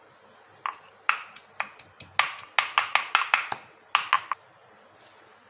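Teppal (Goan tirphal) berries being pounded to crush them. About eighteen quick, sharp strikes come in an uneven run of roughly five a second, many with a short metallic ring. They stop a little after four seconds in.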